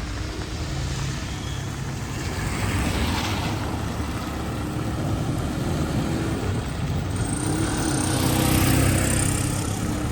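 Street traffic: motor vehicle engines running at close range, with the noise of a vehicle passing swelling and fading twice, loudest near the end.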